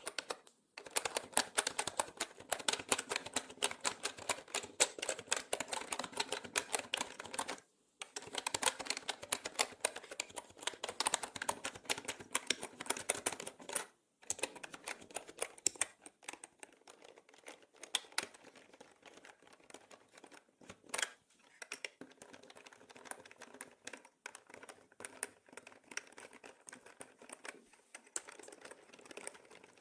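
Mechanical keyboard being typed on in fast, dense runs of key clicks, broken by brief pauses, with the sound processed in 8D so it pans around the listener. Past the middle the typing becomes sparser and quieter.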